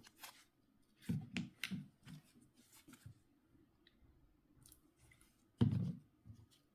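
Small clicks and taps of a mobile phone's plastic and metal parts being handled and worked with small tools during disassembly: a quick run of several clicks about a second in, faint ticks after, and a louder knock near the end followed by a lighter one.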